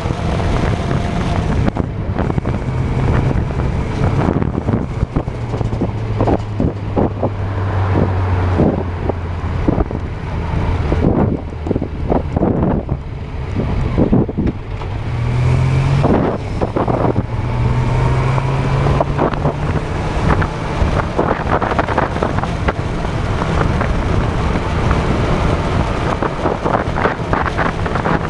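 Honda CB400 motorcycle engine running under way, its revs stepping down and climbing again several times as it changes speed. Wind buffets the handlebar-mounted microphone throughout.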